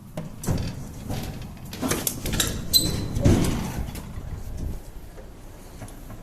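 Metal clunks and rattles from a truck-mounted lift at work, with a brief high squeal about three seconds in.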